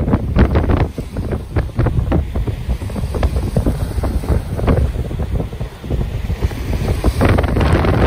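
Ocean waves with strong wind buffeting the microphone in rapid gusty rumbles. A wave's hiss swells up about seven seconds in.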